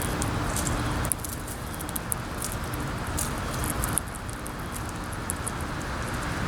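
Wind blowing across the microphone, a steady rumble with gusts that ease about a second in and again around four seconds. Small, sharp high clicks and ticks are scattered throughout.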